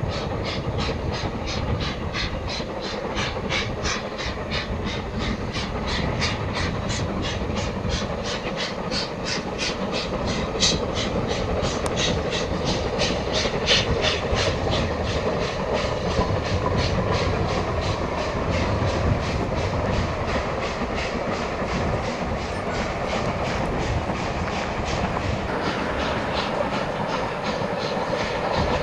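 Train running through the station: a rapid, even beat of about four strokes a second over a steady rumble, starting a few seconds in and fading near the end.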